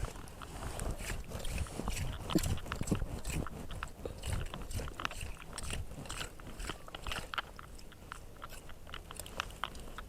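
Clam rake scraping and crunching through wet sand and shells, with many irregular clicks as shells knock together.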